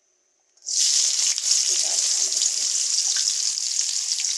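Onions frying in hot oil: a loud, steady sizzle that starts abruptly just under a second in.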